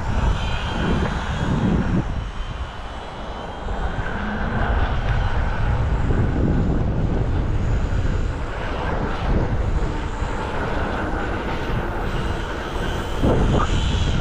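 Strong gusty wind rumbling on the microphone, rising and falling, with the faint high whine of a UMX Radian ultra-micro glider's small electric motor and propeller.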